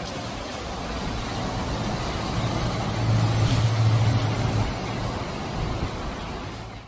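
Motor vehicle running, its low engine hum swelling to a peak about three seconds in and easing off, over a steady rushing noise.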